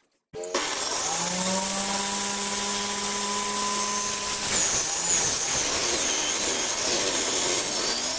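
An electric power tool switched on, spinning up over about a second and then running at a steady pitch. About halfway through, its clean tone gives way to a rougher, noisier sound.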